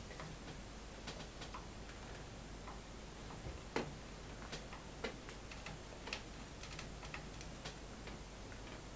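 Faint, irregularly spaced clicks and taps from pet cockatiels moving about, with one sharper click a little before the middle.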